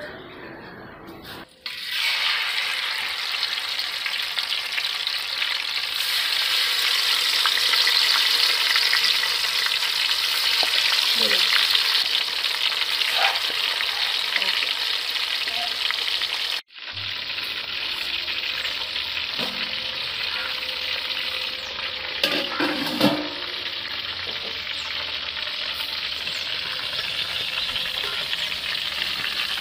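Marinated whole quails deep-frying in hot oil, a loud steady sizzle that starts about a second and a half in. It breaks off for an instant near the middle and resumes a little quieter, with a few faint clicks.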